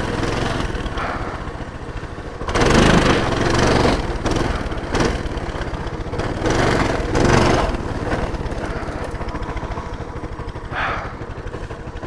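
Coleman minibike's small single-cylinder engine running on a trail, surging louder twice under throttle and then settling to an even, pulsing idle near the end.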